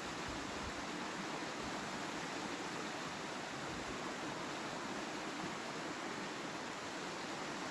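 Steady rushing of a waterfall pouring over rock into the pool below. Low wind buffeting on the microphone comes and goes, near the start and again about halfway through.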